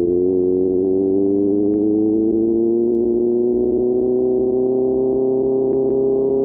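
QJ Motor SRK600's inline-four engine running through an SC-Project exhaust, holding a steady note whose pitch climbs slowly and evenly as the bike gains speed in gear.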